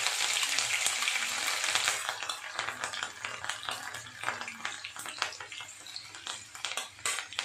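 Chopped green chillies sizzling in hot oil in a kadhai. The sizzle is dense for about the first two seconds, then dies down to a lighter sizzle with scattered crackles and pops.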